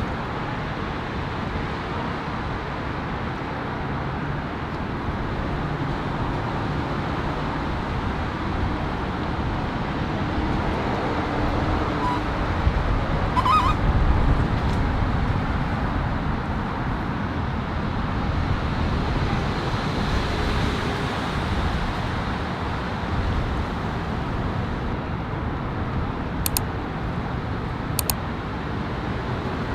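Vehicle engines running at low speed under steady outdoor background noise, as a truck backs a boat trailer down a ramp; two short sharp clicks near the end.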